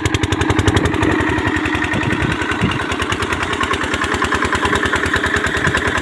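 Diesel engine of a water pump running with a steady, rhythmic firing beat that quickens about a second in, then holds even.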